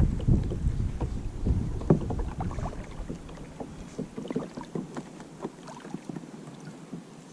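Kayak on the river: small splashes of water and light knocks around the hull. Wind buffets the microphone for the first few seconds, then dies down.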